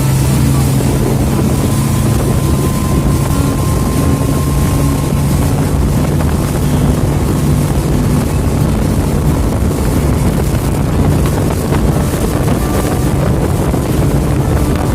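Boat engine running at a steady drone, with wind buffeting the microphone.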